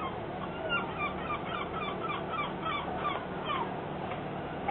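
A gull calling in a rapid series of about a dozen short, falling notes, about four a second, ending in one longer downward slur, over a steady low hum.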